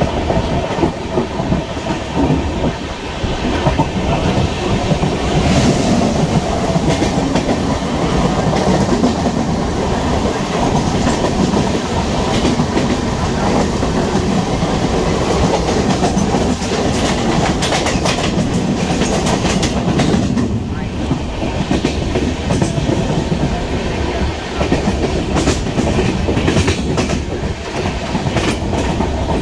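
Indian Railways express passenger train running at speed, heard from on board. The coach gives a steady rumble under the clickety-clack of wheels over rail joints, with runs of sharp clicks in the second half.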